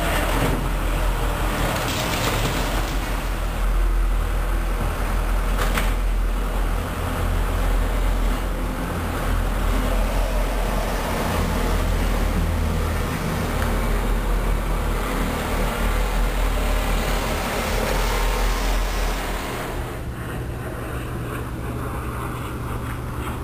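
Diesel freight locomotives passing at speed: a steady low engine drone over the rushing of steel wheels on the rails, with a single clank about six seconds in. The rushing thins out near the end while the low drone carries on.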